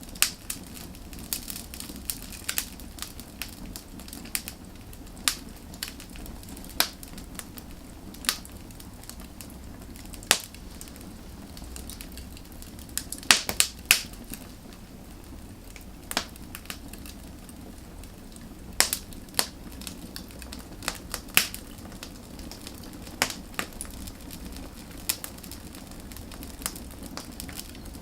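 Wood fire burning, with irregular sharp crackles and pops over a steady low hiss of flame; a cluster of louder pops comes about halfway through.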